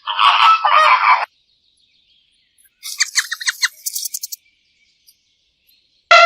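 Animal calls: a loud, harsh call for about a second, then silence, then a quick run of bird chirps lasting about a second and a half.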